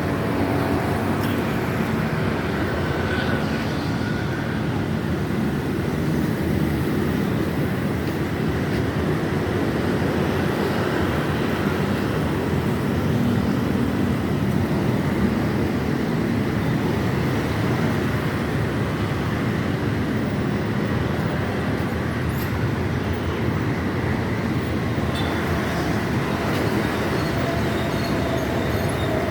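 Steady rumble and running noise of a moving vehicle, even in level throughout.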